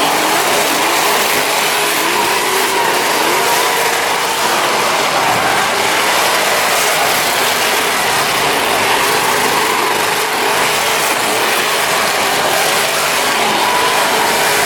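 Steady, loud vehicle and engine noise with a faint wavering whine running through it.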